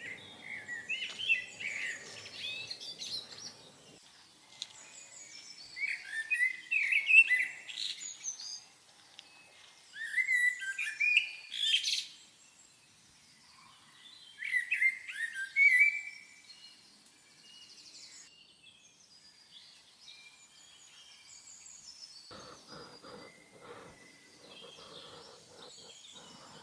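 A bird singing in repeated short phrases of rapid chirps and whistles, four loud bursts a few seconds apart, then quieter. Faint low rustling comes in near the end.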